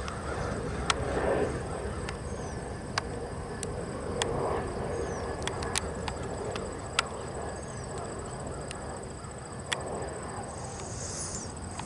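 Outdoor ambience: a steady high-pitched insect drone with a few short chirps and scattered sharp clicks over a low rumble, with soft rushing swells every couple of seconds.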